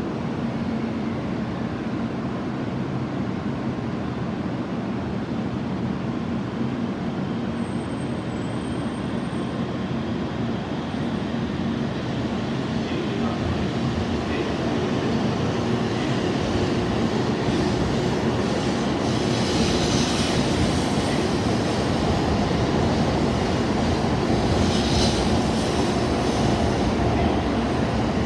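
Kyushu Shinkansen train pulling out along the platform after the safety gates close: steady rolling and running noise with a low hum, slowly growing louder.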